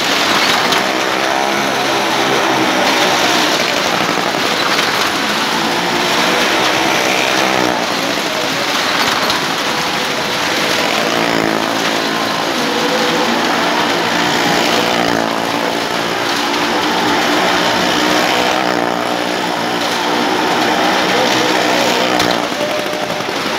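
Car engine running hard as it circles the wall of a wooden well-of-death drum, its note swelling and falling every few seconds with each lap, echoing inside the drum.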